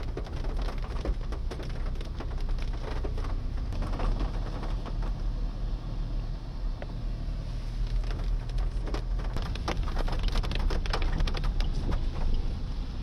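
Heavy rain drumming on a car's windshield and roof, heard from inside the cabin: a dense patter of sharp drop hits over a steady low rumble.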